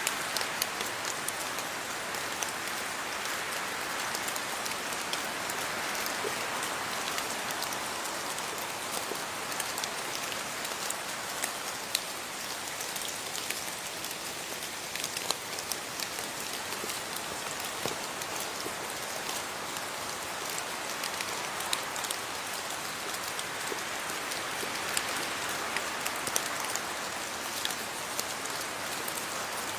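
Steady rain falling, a dense even hiss with many individual drops ticking sharply throughout.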